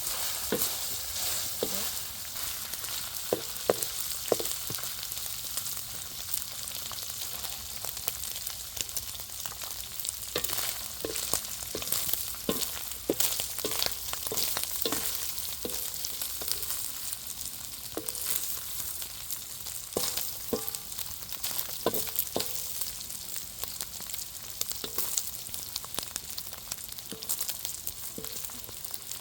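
Food frying in oil in a pan with a steady sizzle, while it is stirred: irregular scrapes and knocks of the spoon against the pan.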